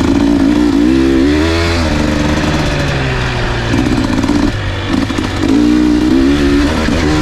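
Dirt bike engine being ridden on a trail, revving up and down with the throttle, its pitch rising and falling, and easing off briefly about 2 s and 4 s in.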